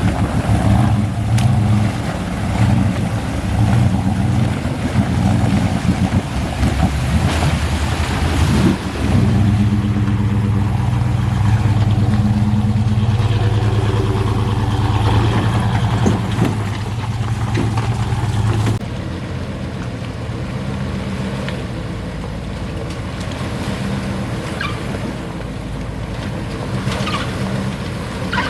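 Off-road vehicle engine working under varying throttle, then holding a steady drone for about ten seconds. About two-thirds of the way through the sound drops suddenly to a quieter, even engine hum.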